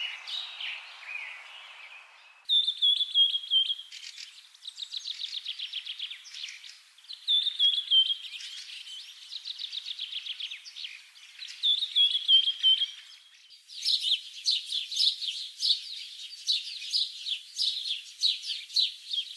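Birds singing: a short falling whistle followed by a rapid trill, repeated three times. From about two thirds of the way in, a dense run of quick chirps takes over.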